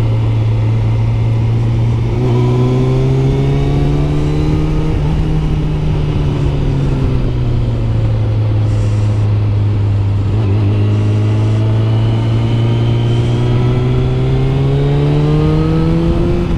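Kawasaki ZZR600's inline-four engine under way, heard over wind rush: the engine note climbs as the bike accelerates, drops back in the middle, then climbs again through the last few seconds.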